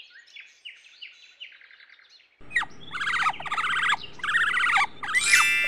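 Birdsong: a faint run of quick falling chirps, then from about two and a half seconds in a louder recording of rapid repeated chirping over background noise, with a few held whistled notes near the end.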